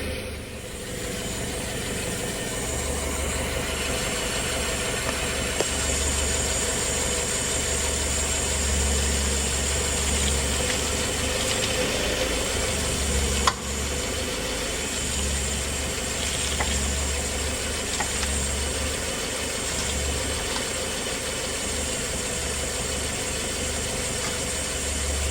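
Subaru XV's engine idling steadily, with a few short clicks, the sharpest about halfway through.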